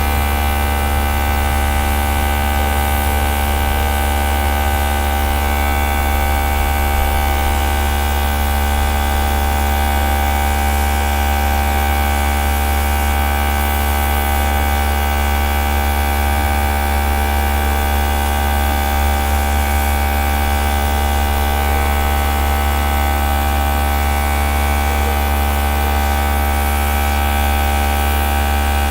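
Small airbrush air compressor running steadily: a loud, even, unchanging hum.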